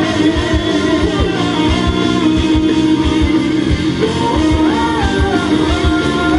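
Live rock band playing between sung lines: a melodic guitar line over bass and a steady drum beat.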